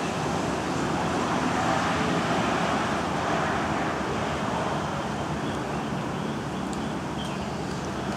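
Steady rushing noise of road traffic, with no clear single event standing out.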